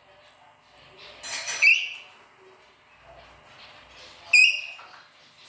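A pet parrot giving two short, high-pitched calls, about two and a half seconds apart. The first comes right after a brief rush of noise.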